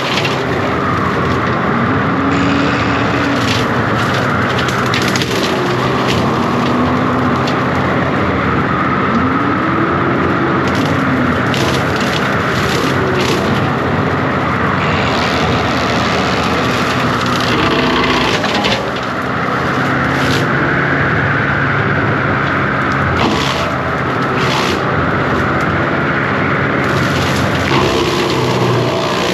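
A John Deere 333G compact track loader runs steadily under load with its tree-saw and brush-cutter attachment while limbs and brush crack and snap. The engine pitch swells briefly several times.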